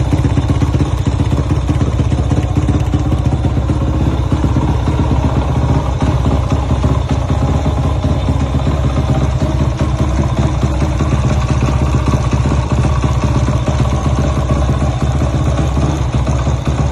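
Honda Astrea GLX's Takegawa 138cc four-stroke single-cylinder engine with a dry clutch, running steadily at an even speed.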